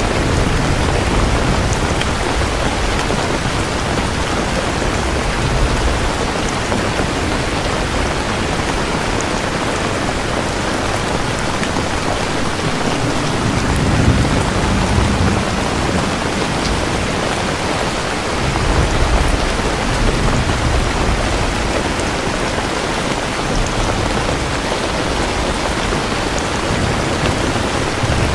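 Steady heavy rain falling, with low rolling thunder rumbling underneath, swelling most strongly about halfway through and again a few seconds later.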